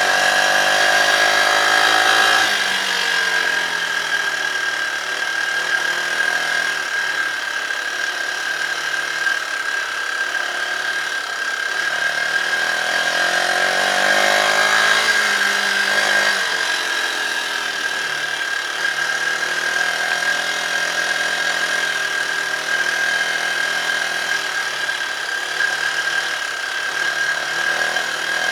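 Dirt bike engine running under way, its pitch rising as it revs and falling back about two seconds in and again around the middle. A steady high whine runs alongside it.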